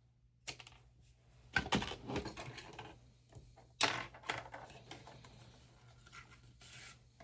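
Close-up handling of small hobby parts: a few light clicks and knocks with short scraping and rubbing sounds between them.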